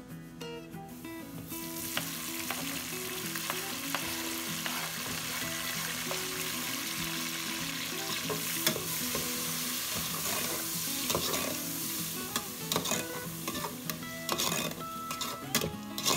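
Chopped tomatoes and green chillies frying in hot oil in a steel pot, a steady sizzle that starts about a second and a half in, with a spatula scraping and clicking against the pot as they are stirred.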